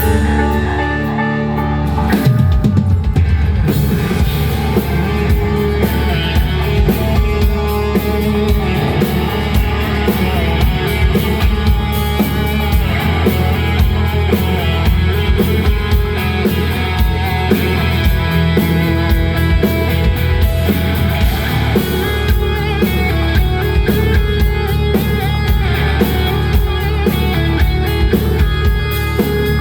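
Live rock band playing a song with drum kit and electric guitar; sustained low chords open, and the drums come in about two seconds in with a steady beat.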